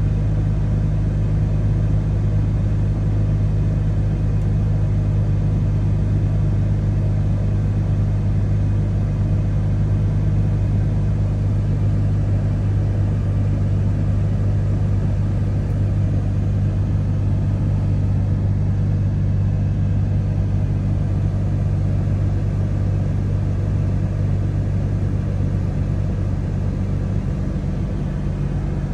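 Nissan 300ZX Twin Turbo's 3.0 L twin-turbo V6 (VG30DETT) idling steadily as it warms up after a cold start, with no revs. The idle tone shifts slightly near the end.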